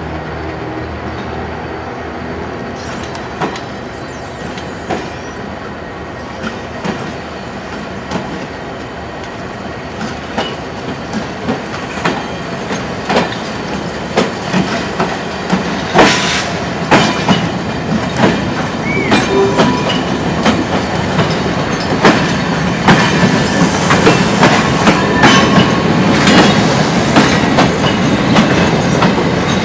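Blue passenger coaches rolling slowly along the rails, their wheels clicking over the rail joints faster and louder as they come close. A few faint wheel squeals run under the clicking.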